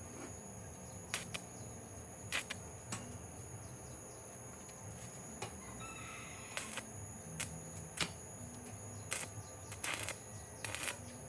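Scattered light clicks and taps at irregular intervals, thickening in the second half, over a steady high-pitched whine.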